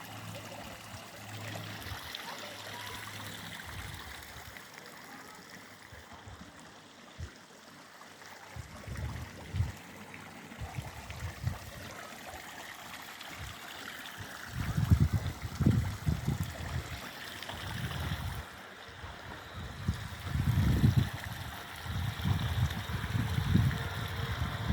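A stream of water flowing steadily. Low buffeting on the microphone joins in, heavy and uneven through the second half.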